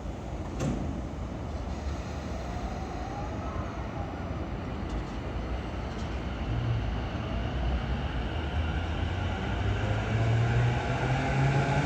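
E233-5000 series electric train pulling away from the platform. Its VVVF inverter and traction motors give several whining tones that rise steadily in pitch as it accelerates, growing louder toward the end. There is a single sharp click about half a second in.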